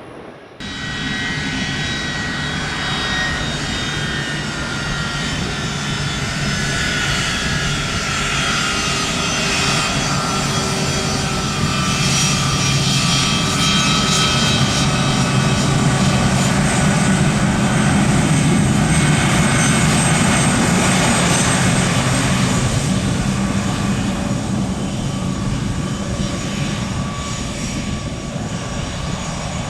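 Jet airliner's engines, a steady rush with a whine that slides down in pitch as the aircraft goes by, loudest about two-thirds of the way through and then easing off.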